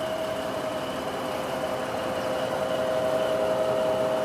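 Heavy diesel machine engine running steadily, with a constant whine over it.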